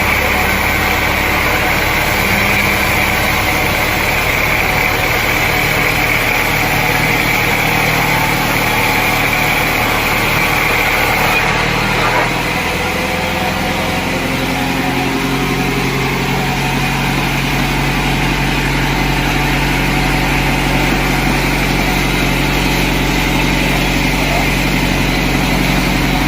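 Sawmill machinery running steadily, an engine-like drone whose pitch and pattern shift about halfway through.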